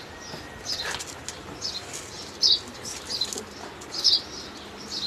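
A bird chirping over and over, a short high call about once every second.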